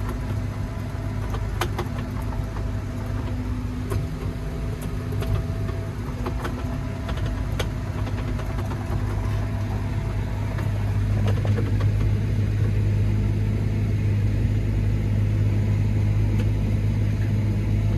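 Tractor engine running steadily under load while spreading slurry through a dribble bar, heard from inside the cab. The low drone grows somewhat louder about eleven seconds in, with a few light clicks.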